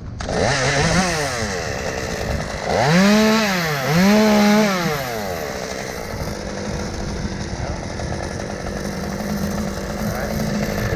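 Chainsaw engine revved up and down a few times, with two strong revs around three and four seconds in, then running steadily at a constant speed.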